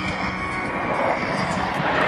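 Jet aircraft engine noise, a broad rushing sound swelling louder toward the end as the jets approach. These are the Thunderbirds' F-16 fighter jets.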